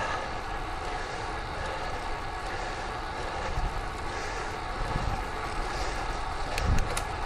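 Steady road and wind noise from riding a road bike: tyre noise on the pavement with wind buffeting the camera's microphone. A few sharp clicks and low bumps come near the end.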